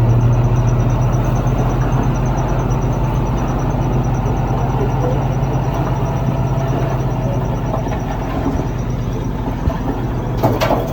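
Diesel engine of heavy earthmoving equipment running steadily at a constant pitch, with a short burst of noise near the end.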